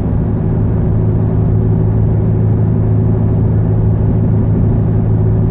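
Car engine and road noise heard from inside the cabin while cruising, a steady drone that holds even without change.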